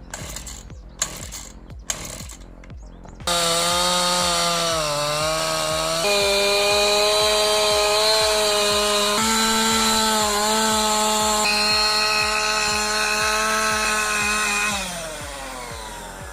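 A chainsaw running at high revs and cutting wood. It comes in loudly about three seconds in, its pitch dipping now and then under load, and winds down near the end. A music beat runs underneath.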